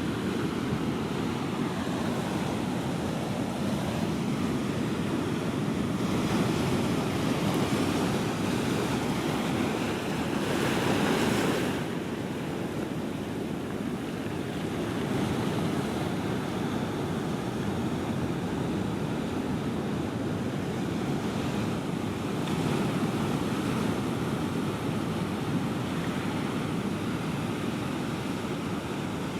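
Ocean surf: waves breaking and washing ashore in a continuous deep rumble that swells and eases, one wave standing out about ten seconds in. Some wind noise on the microphone.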